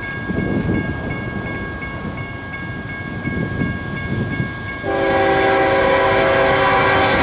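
Approaching Union Pacific freight train led by a GE C45ACCTE diesel locomotive: engine rumble with a steady repeating high tone, then about five seconds in the locomotive's air horn starts suddenly and sounds loudly, held to the end.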